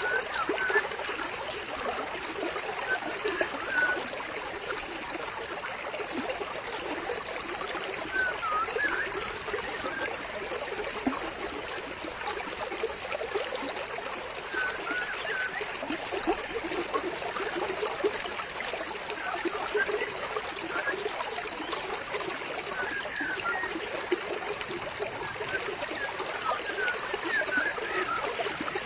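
A small stream flowing and trickling steadily over stones, with short bird chirps every few seconds.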